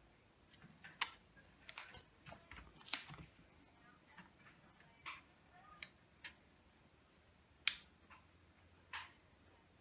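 Irregular sharp clicks and snaps of hand tools and brittle plastic parts as the old ballast wiring of a fluorescent light fixture is pried and broken apart. The two loudest snaps come about a second in and near the end.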